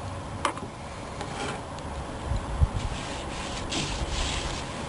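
Razor blade trimming excess vinyl roof material, with scraping and rubbing as the blade and material are worked. There is one dull knock about halfway through.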